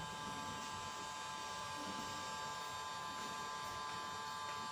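Electric smart blind motor running steadily with an even, high electric whine as it closes the blind.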